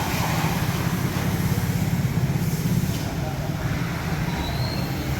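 A steady low rumble, like a running motor, with indistinct voices over it.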